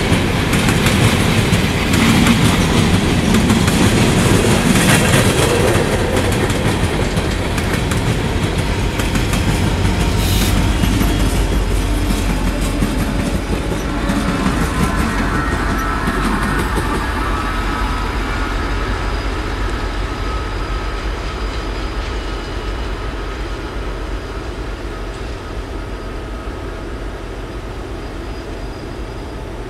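Freight train of coal hopper cars rolling past with steady wheel clatter, then the trailing locomotives go by with a high steady whine, and the sound fades as the train moves away.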